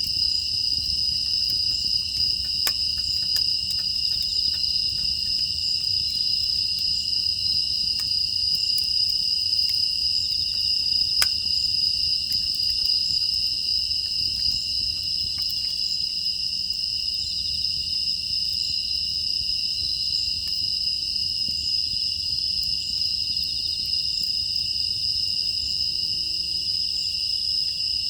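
A dense chorus of crickets and other grass insects, a continuous high-pitched steady trill, with a few faint sharp ticks scattered through it.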